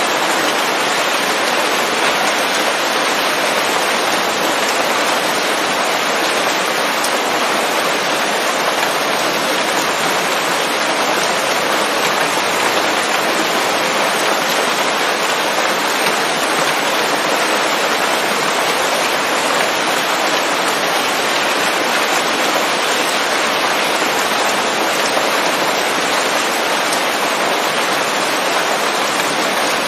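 Steady rain falling on forest leaves, an even, unbroken patter with no thunder.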